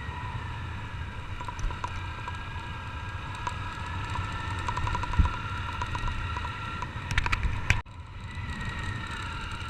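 Honda Titan 150's single-cylinder four-stroke engine running at a steady cruise, with wind rumble on a helmet-mounted camera's microphone. A few clicks near the end, and the sound cuts out for an instant about eight seconds in.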